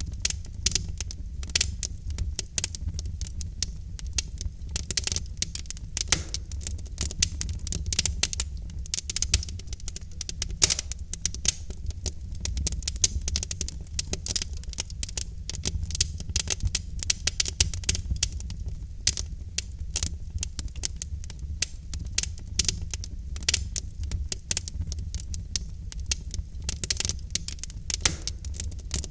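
Wood logs burning in a fireplace, crackling with many quick, irregular sharp pops over a steady low rumble.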